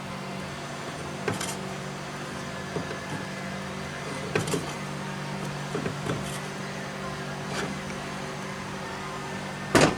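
Scattered metal clicks and knocks from handling and turning the flywheel of a Briggs & Stratton FI engine by hand to check whether it still rubs the magneto armature, with two louder knocks near the end. A steady hum runs underneath.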